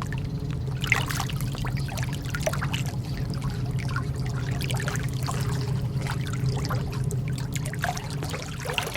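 Lake water lapping and trickling in small irregular splashes, over a steady low hum.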